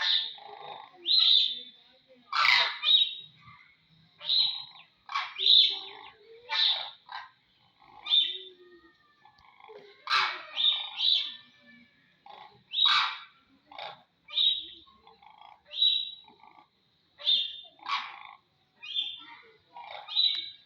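Crane calls: a long run of short, loud calls, roughly one a second with brief gaps between them.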